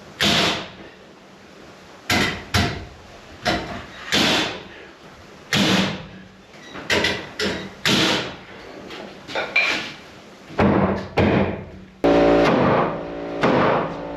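Sharp strikes of nails being driven into wooden wall framing, about a dozen spaced unevenly roughly a second apart, each with a short ringing decay. Music comes in near the end.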